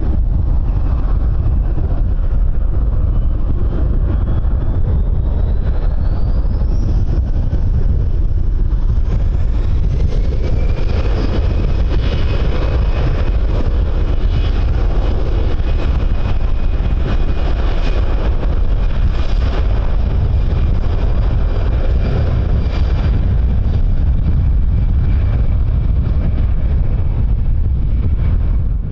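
Jet aircraft engines running, with a whine that rises twice and then holds steady, over a strong wind rumble on the microphone.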